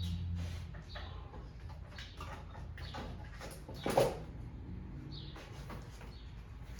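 Small clicks and taps of parts being handled, with one louder knock about four seconds in.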